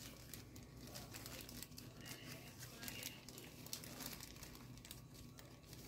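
Faint crinkling and rustling of a plastic package of street-taco tortillas being handled, with small scattered ticks.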